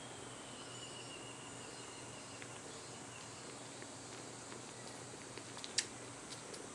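Young kitten purring softly while suckling, with small wet sucking clicks and one sharper click near the end.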